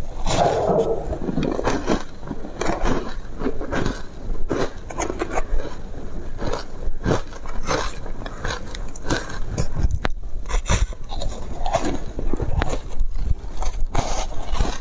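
Foam ice being bitten and chewed close to the microphone: a dense, irregular run of crunching and crackling bites.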